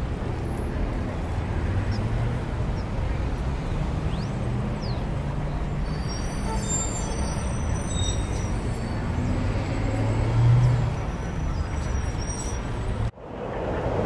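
Street traffic ambience: a steady low rumble of passing vehicles, with a few faint high squeals about halfway through and a swell a little after ten seconds. It cuts off abruptly near the end and a different ambience begins.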